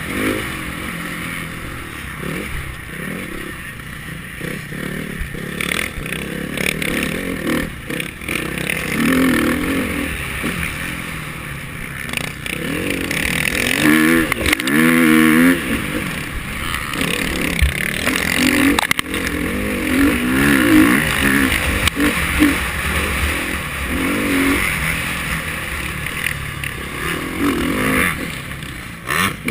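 KTM 350 XC-F's single-cylinder four-stroke engine being ridden hard, its pitch repeatedly climbing and dropping as the throttle is worked and opened and closed.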